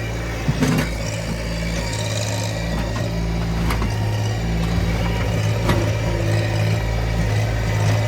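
Small tractor engine running steadily under load while digging, with a few sharp knocks from the digging.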